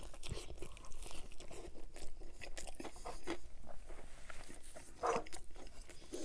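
Close-miked biting and chewing of a crusty Domino's pan pizza, with many short crunches as the mouthful is worked.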